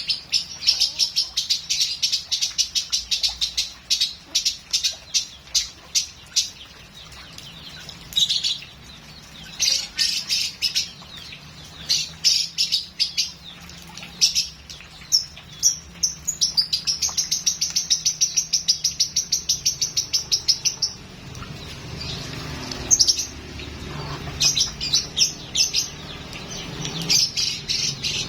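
A lovebird singing: long runs of rapid, high chirps strung together with short pauses, and a dense, fast trill held for a few seconds in the middle.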